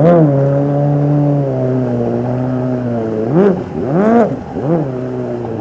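Jet ski engine running at a steady pitch, then revved up and down about three times in the second half as the rider works the throttle while warming up.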